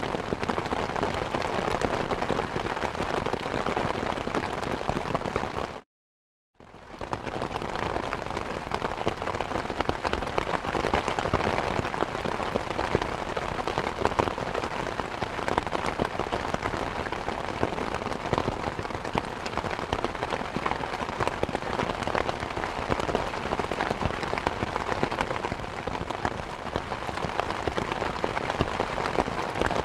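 Heavy rain pouring down in a dense, steady patter of drops. The sound cuts out completely for under a second about six seconds in.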